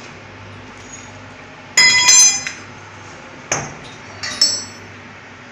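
Three ringing clinks of hard objects being struck, the first and loudest about two seconds in, over a steady low machinery hum in a steam boiler room.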